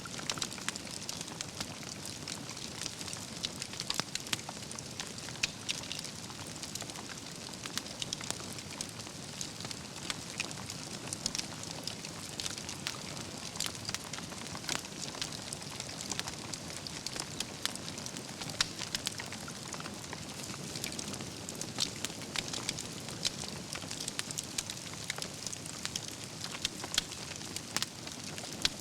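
Wood campfire burning, its logs crackling and popping in many sharp irregular snaps over a steady hiss.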